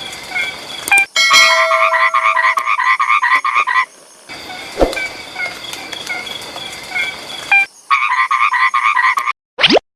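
Frog chorus: a background of short repeated chirping calls, with two loud runs of fast pulsed calls, one about a second in and one near the end. The sound cuts off abruptly just before the end.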